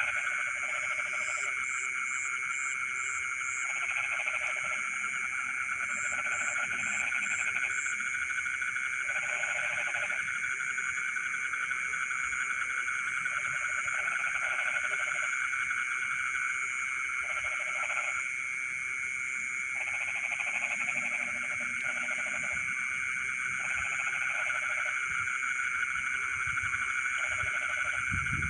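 Night chorus of frogs in a rice paddy: a dense, steady trilling. A lower-pitched croaking frog joins in short bouts of about a second, every two to three seconds.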